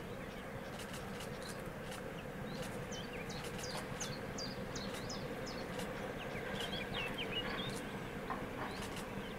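Small birds chirping in short, quick calls over a steady low hum, the calls busiest in the middle few seconds.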